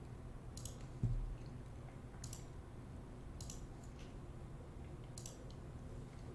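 Four faint, sharp clicks spaced a second or two apart, with a soft low thump about a second in, over a steady low hum.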